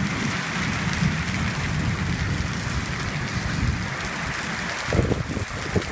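Heavy rain pouring down steadily in a thunderstorm, with gusts of wind buffeting the microphone near the end.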